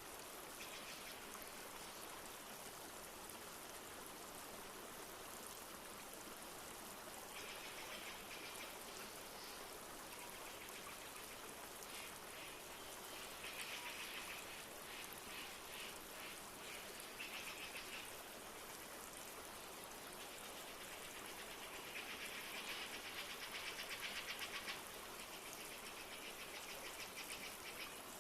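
A river flowing steadily, with bursts of rapid high trilling calls from forest birds several times over it, loudest in a three-second stretch toward the end.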